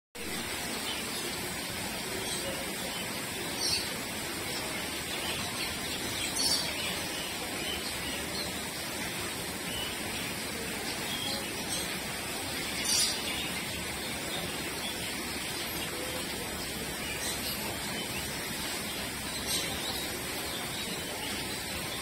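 A few short, high bird chirps spaced several seconds apart, over a steady background hiss.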